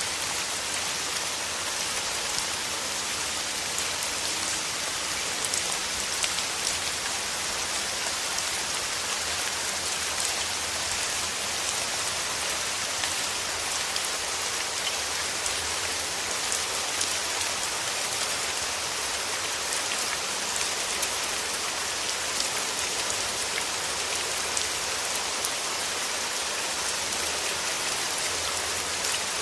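Steady rain with many fine individual drops pattering on leaves and petals, a continuous hiss with small ticks of close drops.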